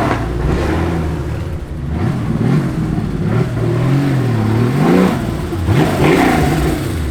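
A supercar's engine being revved over and over, its pitch climbing and falling several times in quick succession.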